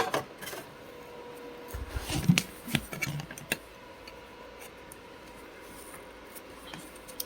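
Handling noises from a vacuum's plastic dusting brush and hose attachment being taken off and fitted: a sharp click at the start, then a cluster of clicks, knocks and rubbing a couple of seconds in. A faint steady hum sits underneath.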